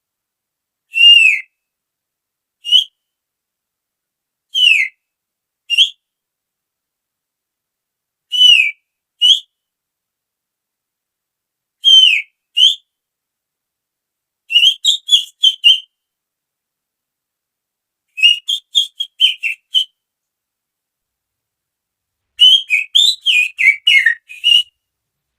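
Finger whistling imitating a female oriental magpie-robin's call. It starts with four pairs of notes, each a falling whistle followed by a short note, then turns to three quick runs of rapid chirping notes in the second half.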